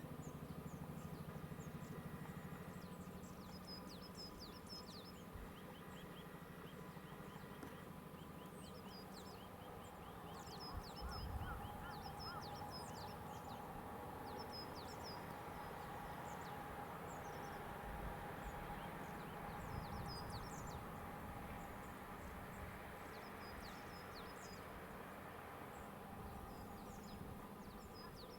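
Small birds chirping again and again in short, quick high notes over a faint, steady low hum.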